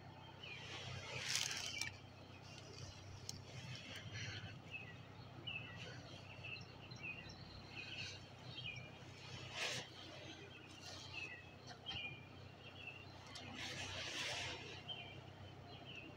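Faint bird chirping: many short, high chirps scattered irregularly, with a few louder, noisier bursts about a second, nine and a half seconds and fourteen seconds in.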